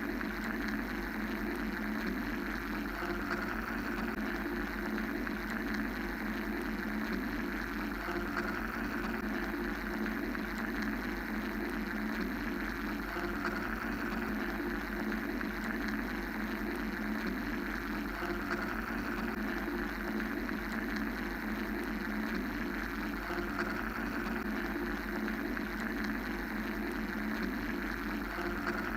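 A steady mechanical noise drone, made of bands of even hiss over a low rumble, slowly waxing and waning without any separate events.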